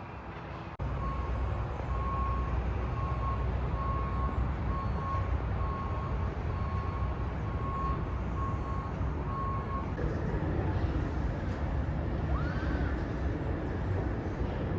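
Heavy vehicle engine running with a single-pitch reversing-style warning beeper sounding about once a second. The sound begins abruptly just under a second in, and the beeping stops about ten seconds in while the engine carries on.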